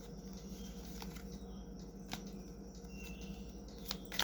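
Tarot cards being handled: a few faint scattered clicks and rustles, with a sharper snap near the end, over a steady low hum.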